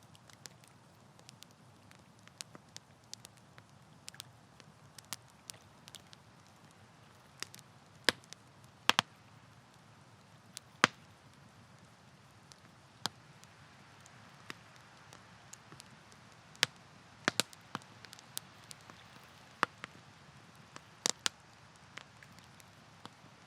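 Wood campfire crackling, with irregular sharp pops from the burning wood over a soft steady hiss; about a dozen louder pops stand out, clustering in the middle and later part.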